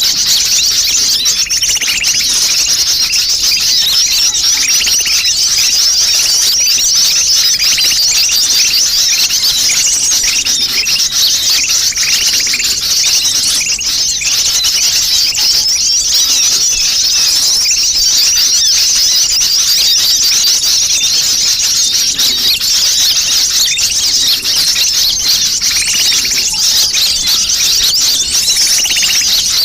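Dense, continuous high-pitched chattering and twittering of many sunbirds, a busy sunbird lure call recording.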